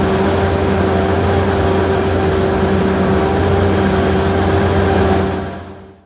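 Heavy farm machinery running steadily at constant speed, a steady engine hum over a broad mechanical rush, fading out near the end.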